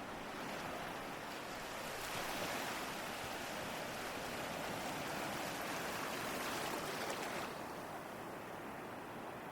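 Ocean waves: a steady hiss of surf that swells about two seconds in, holds, and falls back again near the end.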